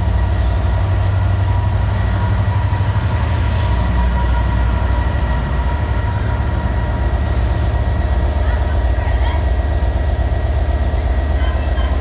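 Diesel train engine idling, a steady low drone with an even hum that does not change.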